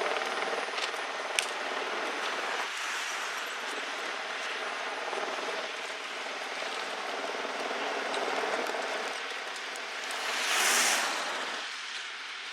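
A heavy vehicle running with a steady engine and road noise, with a sharp click about a second and a half in and a brief hissing whoosh near the end.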